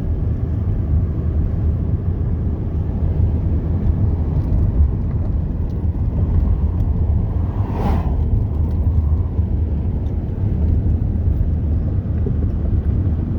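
Steady low road rumble of a moving car, heard from inside the cabin while driving.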